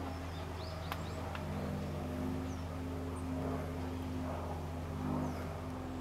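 A steady low drone with a few faint, short bird chirps high above it.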